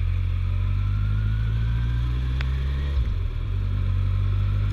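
Suzuki GSF1250S Bandit's inline-four engine running steadily under way, with a faint rising whine as road speed builds. There is a brief break in the engine note about three seconds in.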